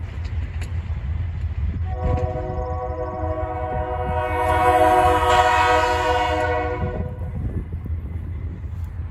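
Delaware-Lackawanna freight locomotive's air horn sounding one long chord, starting about two seconds in and lasting about five seconds, over the steady low rumble of the passing sand train.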